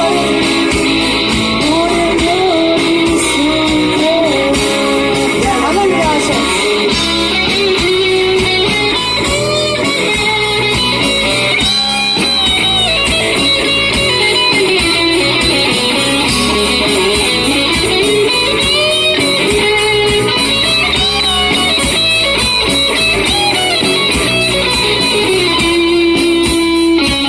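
Live rock band playing an instrumental passage: a lead electric guitar plays bending, sliding notes over the rest of the band.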